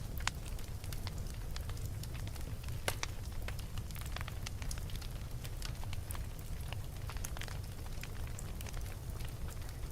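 Wood fire burning in a fireplace: irregular crackles and sharp pops over a steady low rumble, with a louder pop just after the start and another near three seconds in.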